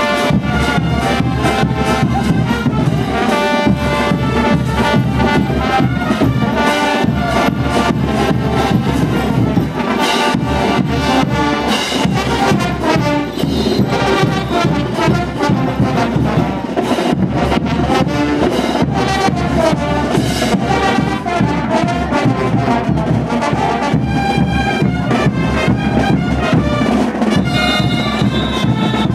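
Brass band playing diablada music: trumpets and trombones carrying the melody over a steady beat of drums and cymbals.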